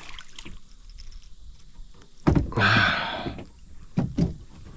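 Knocks and bumps against a plastic kayak hull. The loudest is a sharp hit about two seconds in, followed by a second of rustling noise, and two quick knocks come near the end.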